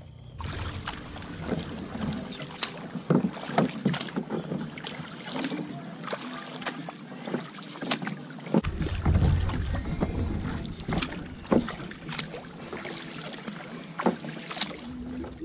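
Tandem kayak under way: paddle blades splash into the water in irregular strokes over water noise against the hull. About two-thirds of the way through, wind buffeting on the microphone abruptly adds a deep rumble.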